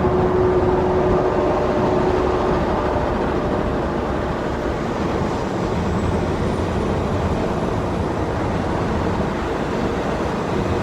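Steady road and wind noise rushing in through an open car window while driving at highway speed.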